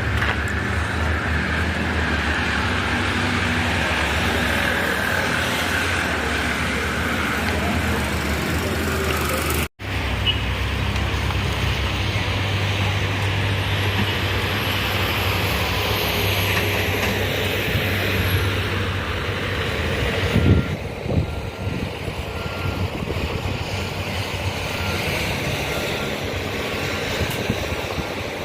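A heavy engine running steadily, with a brief cut-out about ten seconds in and a single knock about twenty seconds in.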